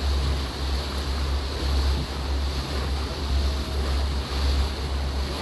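A motor launch under way on open water: steady wash and engine noise, with wind gusting unevenly on the microphone.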